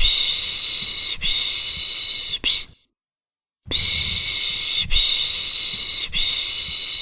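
Baby-soothing 'shhh' shushing, pış pış: three hissing shushes run together, then about a second of silence, then the same three again.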